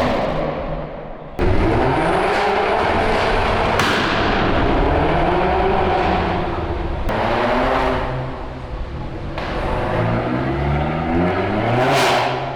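Car engines with loud exhausts revving and accelerating hard, the pitch rising and falling again and again. The sound jumps abruptly about a second and a half in and again later, as if between separate clips, and a hard pull that climbs steeply in pitch comes near the end.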